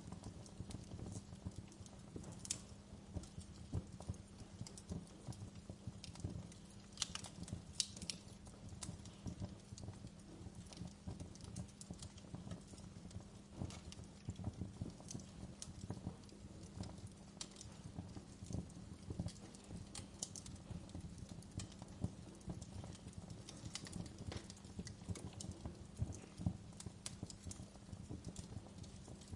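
Wood campfire burning: dense, irregular crackling over a low rumble, with a few sharper pops standing out.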